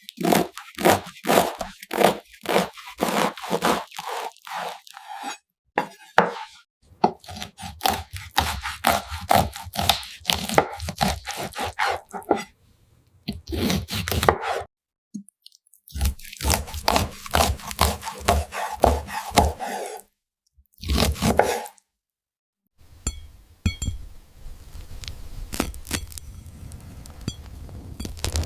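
A knife cutting through fruit and food on a cutting board: a run of short cutting and scraping strokes, about two a second, in several takes with brief silences between them.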